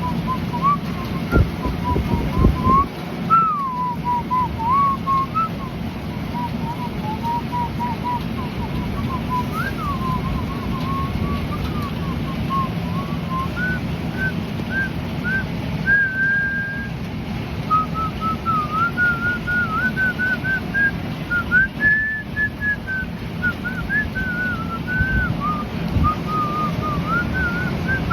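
A person whistling a wandering tune in short rising and falling notes, over a steady rush of heavy rain, with a few low thumps.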